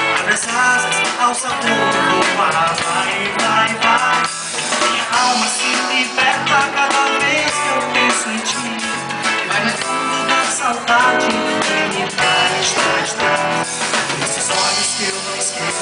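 Pop-rock song played by a band: a voice singing over guitar and percussion.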